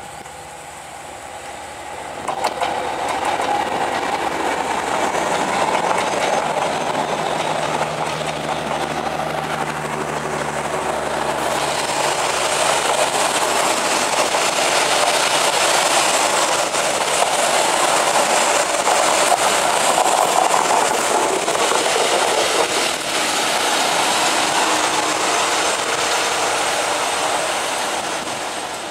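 Coaches of a passenger train rolling past close by: a loud, continuous rumble and rattle of wheels on the rails that swells about two seconds in and holds. A low steady hum runs under it for a few seconds in the middle.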